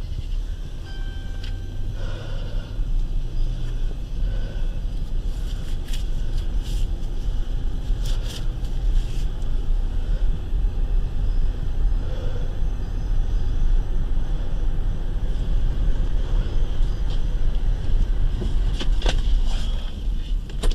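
Patrol car driving, its engine and road noise a steady low rumble heard from inside the cabin, with a short beep about a second in and a few scattered clicks and knocks.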